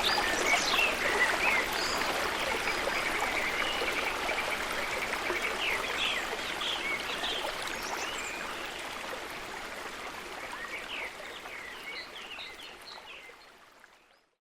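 Steady rush of falling water with birds chirping repeatedly over it; the whole fades out gradually and is gone just before the end.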